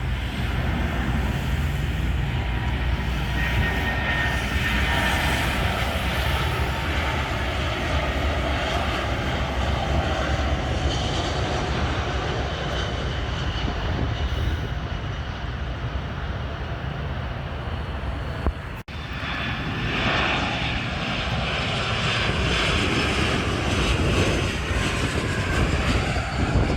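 Jet airliner's engines running loud and steady just after touchdown, as the plane rolls out on the runway, with a faint high whine over the rush. The sound cuts out for an instant about two-thirds of the way through, then carries on.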